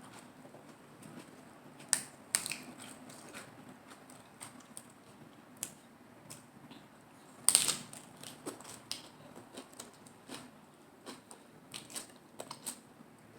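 Close-miked biting and chewing of a lettuce-leaf salad wrap: crisp crunches and small wet clicks. Loud crunches come about two seconds in, and the loudest comes about halfway through.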